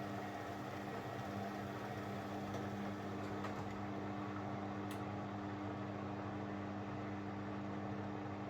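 Beko washing machine's drain pump running with a steady hum as it empties the water out of the drum on the drain cycle.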